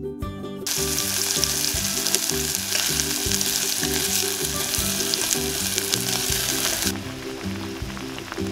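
Scallion oil sizzling: sliced green onions and chili flakes frying in hot oil in an aluminium pot. It starts about a second in and cuts off sharply near the end.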